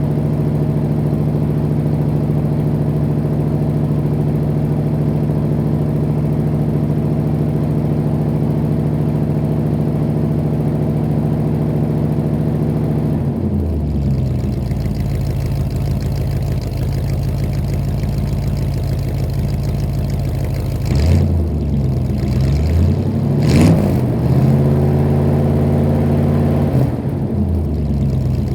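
Exhaust of a 1986 Chevrolet engine, heard at the tailpipe, idling steadily. About three-quarters of the way through it is revved a few times, held briefly at higher revs, then drops back to idle near the end.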